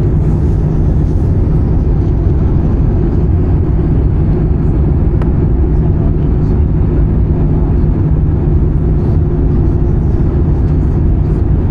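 Steady cabin noise inside an Airbus A320-214 in flight: an even drone of the CFM56 engines and airflow, with a steady low hum running underneath.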